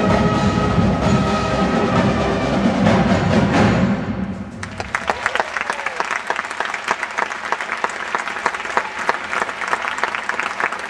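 High school marching band with drums playing loud held notes that end the piece about four seconds in, followed by steady audience applause.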